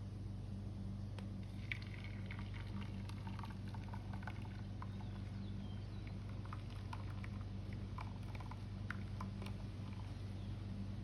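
Molten lead being poured into a waffle-iron plate, with irregular small crackles and ticks as it meets the cooler metal, over a steady low hum.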